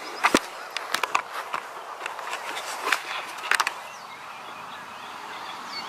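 Scattered light clicks and knocks, a few at a time and strongest in the first four seconds, over a steady background hiss.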